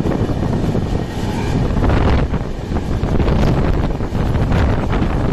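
Gitanjali Express passenger train running at speed, heard from an open window or door: wind buffeting the microphone over the steady rumble of the wheels on the rails.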